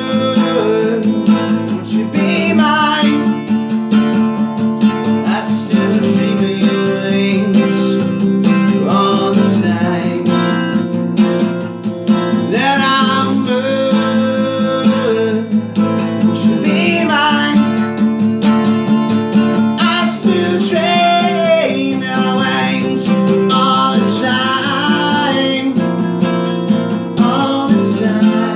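Acoustic guitar strummed and picked, playing the instrumental passage of a song.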